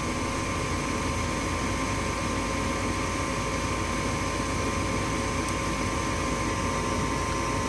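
Goodman gas furnace's draft inducer motor running with a steady whir and a constant hum tone. This is the pre-purge stage at the start of the furnace's ignition sequence.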